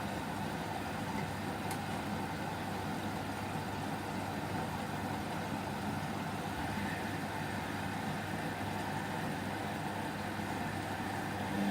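Whirlpool washing machine running a 30° delicate wash, a steady mechanical hum and rumble. Its motor hum drops away at the start and comes back at the very end, as the drum pauses between turns.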